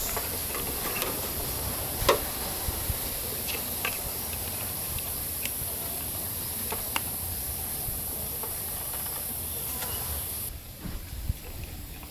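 Steady rain hiss with scattered sharp taps of drops. The hiss cuts off suddenly about ten seconds in, leaving quieter scattered taps.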